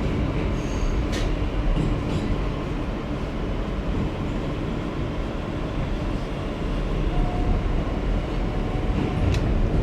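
Interior noise of an R160B subway car running between stations: a steady rumble of wheels and traction motors on the track, with a few sharp clicks about a second in, two seconds in and near the end.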